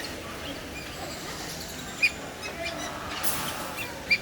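Birds calling: scattered short chirps, with two sharp, loud calls, one about two seconds in and one near the end.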